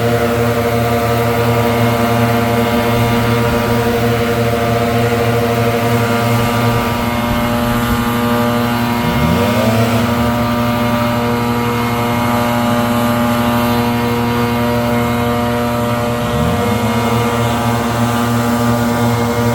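Leaf blower engine running steadily at high throttle, loud. Its pitch briefly drops and swings back up twice, about nine and sixteen seconds in.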